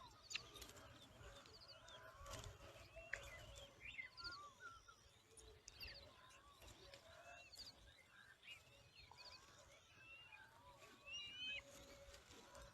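Faint bird calls: many short chirps and brief rising-and-falling whistles, scattered throughout, over a low background rumble.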